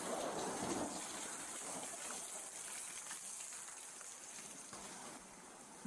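Faint, steady background hiss, with some faint indistinct sounds in the first second.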